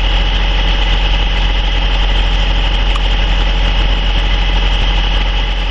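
An engine idling steadily: a constant low hum with a steady mechanical drone that does not change in pitch or level.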